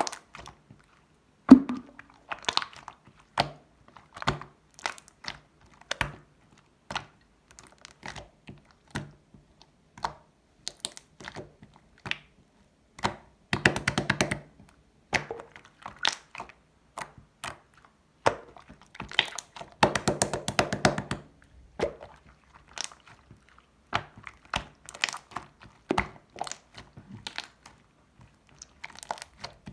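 Slime being squished and poked by hand: irregular sticky pops and clicks, with two longer runs of rapid crackling pops about halfway and two-thirds of the way through.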